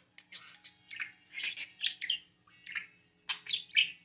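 Pet parakeet chattering excitedly: quick runs of high chirps and warbles in short bursts, with brief pauses between them.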